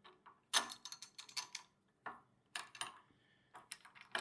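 Small metal parts clicking and clinking in bursts as a throttle lever and its cable are fitted to a plate compactor's handle.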